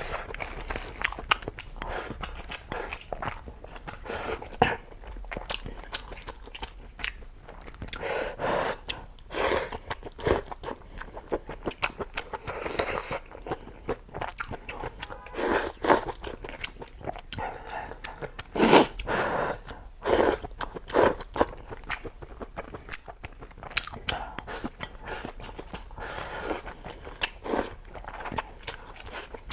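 Close-miked eating: chewing, slurping and mouth smacks, with irregular wet clicks and occasional louder bites.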